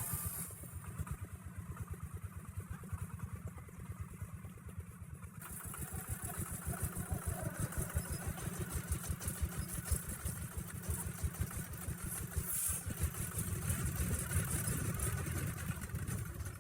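Engine of a small log-hauling tractor-truck running with a rapid, even low chugging beat, growing louder about six seconds in as it works.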